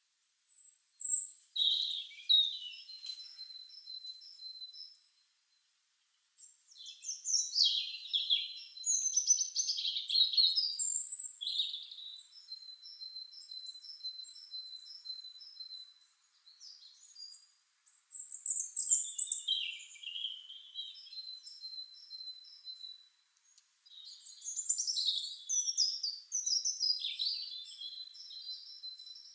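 Songbirds singing: phrases of varied, high-pitched warbling alternate with runs of quick repeated chirping notes, with pauses of a second or two between phrases.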